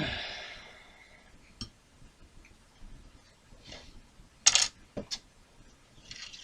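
Small tools and model parts clinking and tapping on a workbench: a sharp metallic clink with a short ring at the start, scattered light clicks, and a quick cluster of louder clicks a little past the middle.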